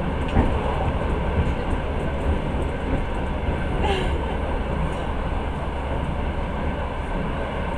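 Passenger train carriage running along the track, a steady rumble of wheels on rails heard from inside the car, with a sharp knock about half a second in.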